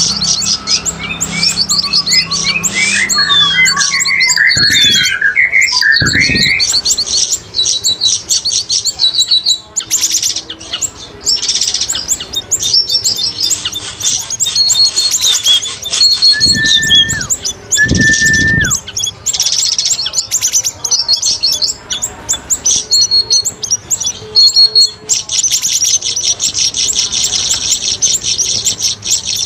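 Recorded birdsong of cucak rawis and siri-siri, played as a bird lure: loud, rapid high chirping and chattering. There are sliding whistled notes in the first few seconds, two short held whistles a little past halfway, and an unbroken run of fast high chatter near the end.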